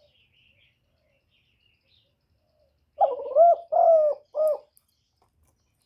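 Spotted dove cooing: one loud three-note coo phrase beginning about halfway through, after a few faint chirps of small birds.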